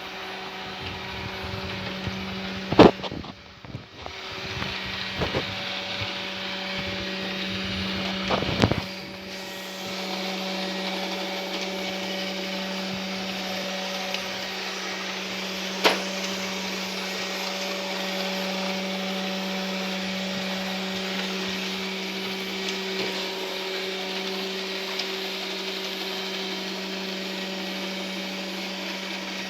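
Ilife V55 Pro robot vacuum running with a steady motor hum, broken by a few sharp knocks and clicks, the loudest about three seconds in.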